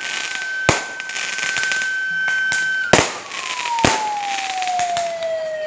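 Fireworks going off: sharp bangs about a second in and twice around three to four seconds in. Under them a long steady high whistle gives way to a whistle sliding slowly down in pitch.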